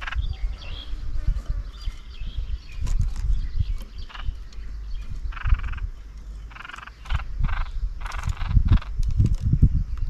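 Harsh, rasping bird calls in four or five short bursts from about halfway through, over a low, gusty rumble of wind on the microphone.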